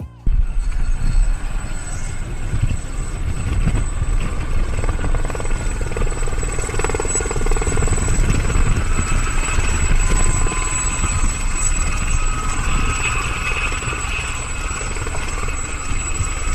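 Helicopter in flight close by, its rotor and turbine running as a dense, steady noise heavy in the low end, with a thin, steady high-pitched whine over it.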